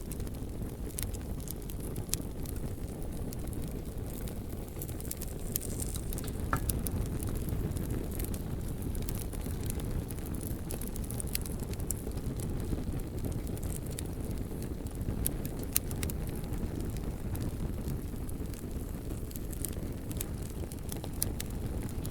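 Bonfire burning with a steady low rumble of flames and frequent sharp crackles and pops of burning wood.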